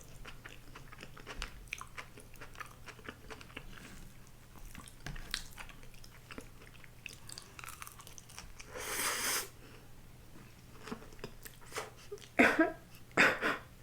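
Close-miked chewing and biting of a grilled eel rice bowl, with many small wet mouth clicks and smacks. A louder noisy sound comes about nine seconds in, and near the end two loud sucking slurps on the food.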